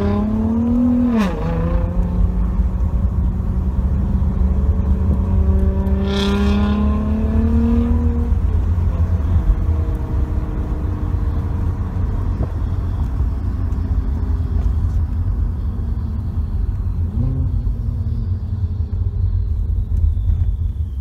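Nissan GT-R R35's twin-turbo V6 through an aftermarket exhaust, driving ahead: the engine note rises and then drops sharply about a second in as it shifts up, pulls up slowly again with a short sharp noise about six seconds in, then settles to a lower steady drone with a brief blip near seventeen seconds. It is heard from inside the following car, over that car's steady low road rumble.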